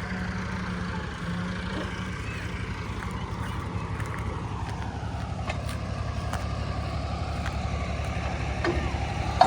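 Fiat 480 tractor's diesel engine running steadily under load while belt-driving a wheat thresher, with an even low throb. A sharp click comes near the end.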